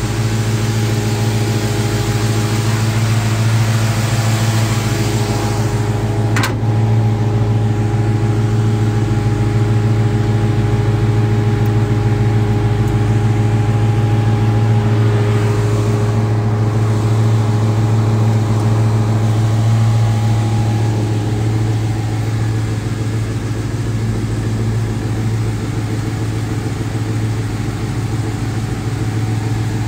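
A 1972 Chevrolet Chevelle SS's V8 engine idling steadily, with one short click about six seconds in.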